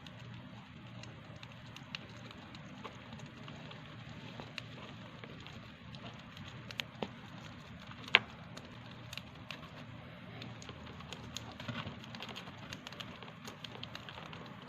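Hamster nibbling dry seeds: small, irregular crunching clicks, with one sharper crack a little past halfway, over a steady low hum.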